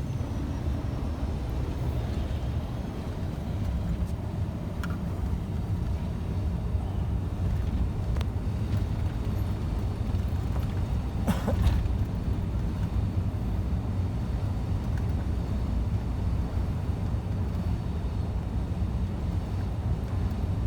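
Scania truck driving on the road, its engine and tyre noise a steady low rumble, with one brief sharper sound just past halfway.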